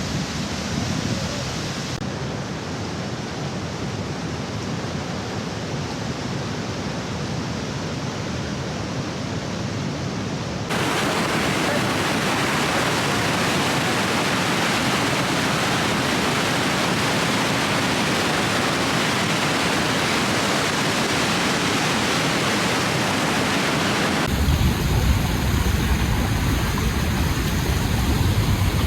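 Steady roar of falling water from Niagara's waterfalls, heard in a run of edited clips whose tone and level change abruptly about 2 seconds in, about 11 seconds in, and again near the end. The last stretch has a heavier low rumble.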